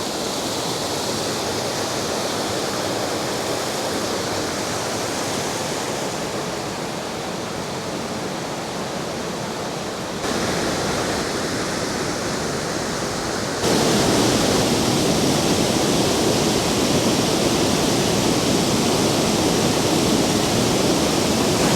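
A waterfall's steady rushing noise, the falling water of Sgwd y Pannwr. It gets abruptly louder about ten seconds in and again about fourteen seconds in, with a fuller, deeper rush in the last part.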